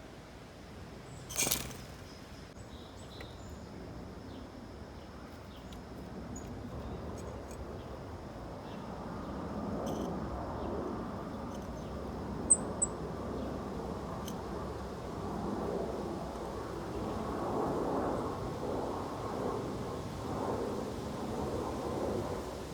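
Outdoor backyard ambience: a sharp click about a second and a half in, then a low noisy rumble that grows louder from about a third of the way through, under a faint steady high tone. About halfway, two quick high bird chirps, the loudest sounds here.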